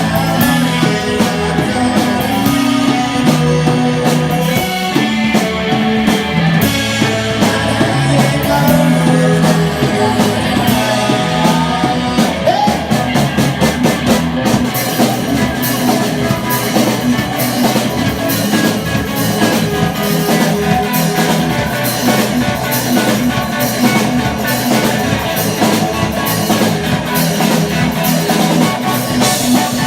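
Four-piece rock band playing live: guitars, bass guitar and drum kit, with the drums and cymbals growing busier about halfway through.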